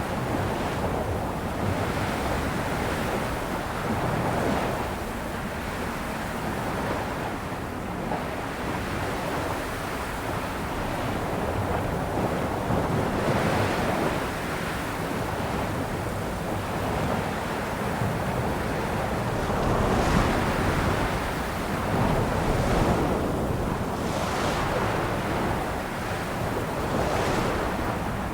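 Ocean waves washing onto a shore: a steady rush of surf that swells and eases every few seconds, with wind on the microphone.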